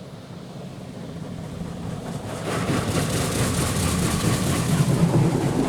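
Touchless car wash (Petit Accutrac 360-i) spraying water jets over the car, heard from inside the cabin: a steady rushing spray that grows louder as the wash arm comes closer, swelling about halfway through.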